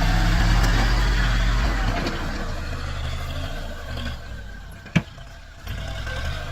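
Tractor diesel engine running steadily. Its sound drops away about two seconds in and is faint for a while. There is a single sharp click near the end, and then the engine comes back strongly.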